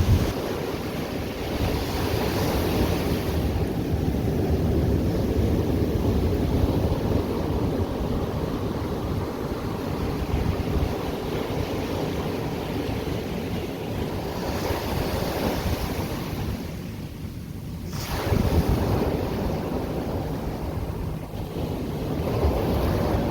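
Ocean surf washing and breaking onto the beach, with wind rumbling on the microphone; a wave breaks more loudly about three-quarters of the way through.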